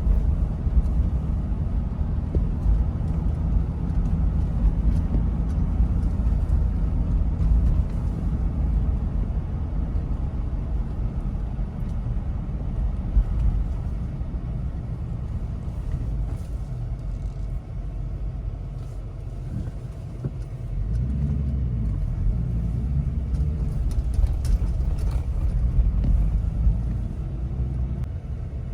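Toyota Land Cruiser 70 driving: a steady low engine rumble with road noise, easing off briefly and then picking up again after about twenty seconds.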